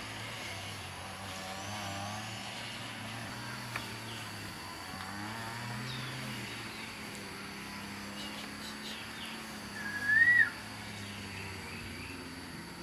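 Outdoor ambience: a low, steady engine hum with faint bird chirps and a steady insect-like high tone. About ten seconds in comes one loud, short whistled call that rises and then dips.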